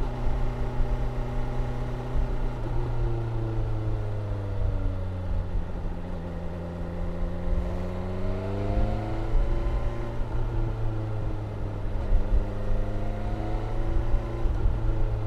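BMW S1000R's inline-four engine running under way. Its pitch shifts with the throttle: it steps down a few seconds in, sags through the middle, then climbs and eases off again twice.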